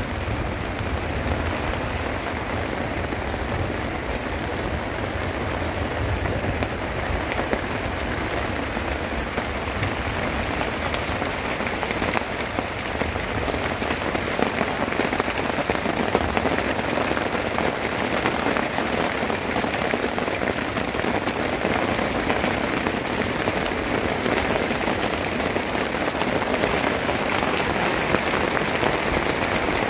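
Steady heavy rain falling on stony ground, a dense even hiss of drops. A low rumble underneath fades out about ten seconds in.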